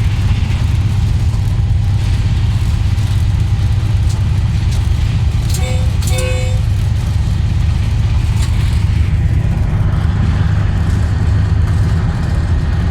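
Khyber Mail passenger train running at speed, a steady low rumble with a few sharp clicks over it. Two short pitched tones sound about six seconds in.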